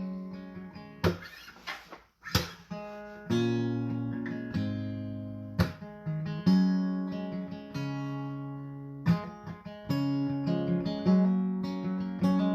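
Acoustic guitar playing the instrumental intro of a country song. A couple of sharp, muted strokes about one and two seconds in, then strummed chords ringing out, a new chord every second or two.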